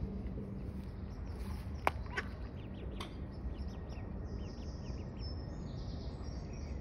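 Short, high bird chirps repeating quickly from about two and a half seconds in, over a steady low rumble, with a few sharp clicks about two and three seconds in.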